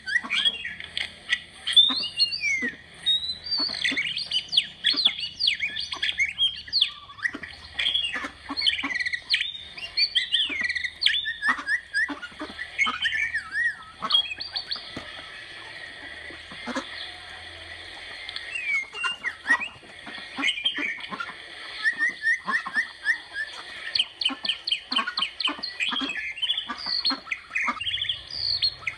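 Birds chirping busily: many short, quick calls overlapping almost without pause, over a steady high background drone.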